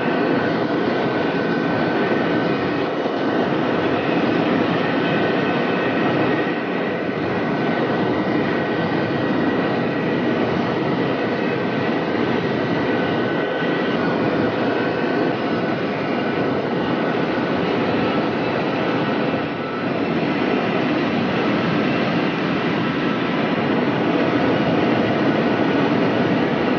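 High-speed electric train running at about 400–450 km/h: a steady rushing noise with faint, high, steady whining tones.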